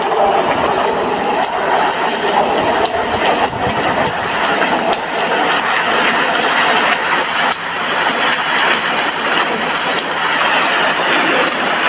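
Steady rain falling at an apartment window: a dense, even hiss with faint scattered drop ticks.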